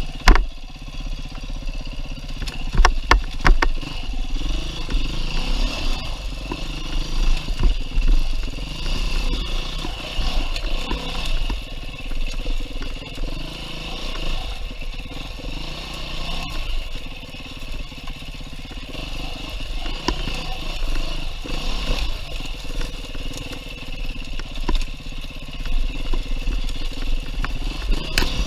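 2019 Beta 390 RR-S single-cylinder four-stroke dirt bike engine riding a trail, its pitch rising and falling with the throttle throughout. A few sharp knocks and clatter from the bike over rough ground come about three seconds in.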